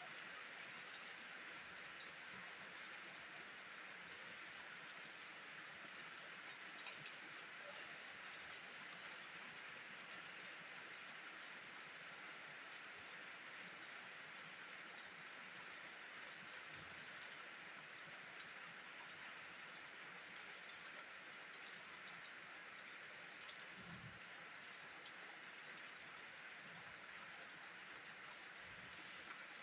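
Steady, faint rain falling, with a few soft low thumps in the last third.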